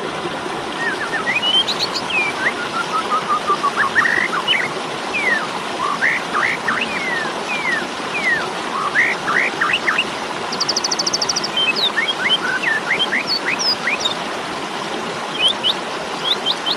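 Asian pied starling (jalak suren) calling in its aggressive 'fighting' mood: a run of short, sharp whistled notes, some sliding up and some sliding down. There is a quick descending string of notes near the start and a fast buzzy trill just past the middle, all over a steady hiss.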